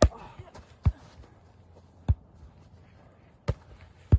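Five sharp, heavy thumps at uneven intervals roughly a second apart.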